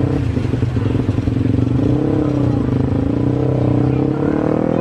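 An engine running close by with a steady pulsing note, its pitch rising slightly near the end.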